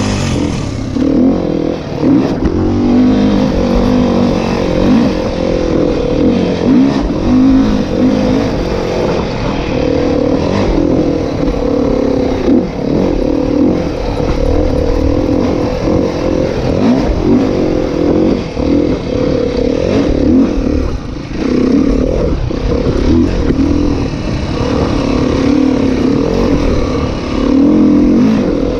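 Dirt bike engine running hard off-road, its revs rising and falling again and again as the throttle is worked.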